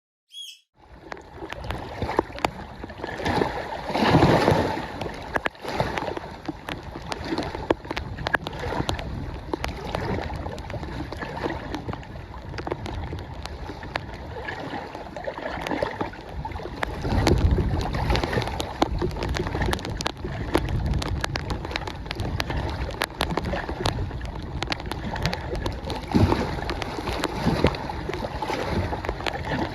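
Strong gusty wind buffeting the microphone, with rain and lake water splashing and lapping at the shore. The gusts swell into low rumbles about four seconds in, around the middle and again near the end.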